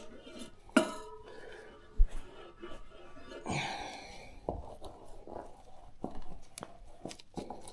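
Tyre levers knocking and scraping against a motorcycle wheel rim as a tyre bead is worked onto it, with two sharp knocks in the first two seconds and softer scrapes and taps after.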